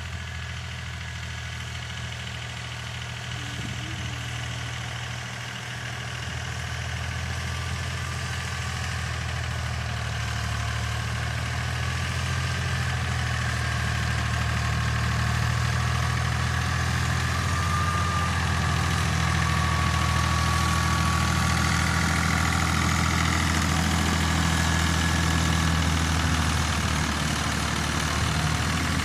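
Tractor engine running steadily with a deep, even hum, growing louder over the first dozen seconds and then holding level.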